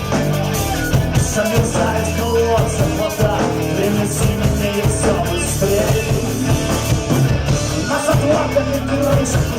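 Rock band playing live with electric guitar, bass and drums, the cymbals struck in a steady beat.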